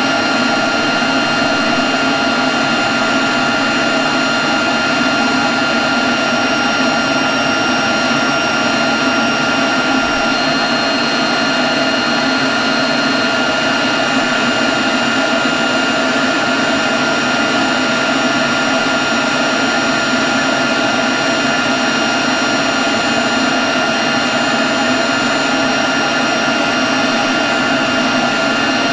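Leaf blower running at a steady speed: an even rush of air with a steady high whine on top, holding constant throughout.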